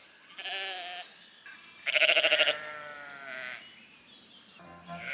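An animal bleating in three quavering calls, the second, about two seconds in, the loudest. Music begins near the end.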